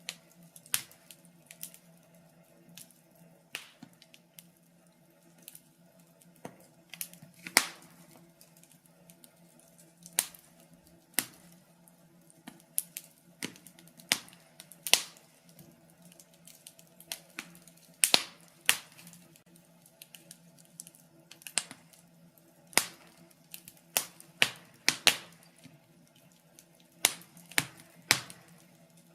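Wood fire crackling in a fireplace: irregular sharp pops and snaps, a few every second or two, some much louder than the rest.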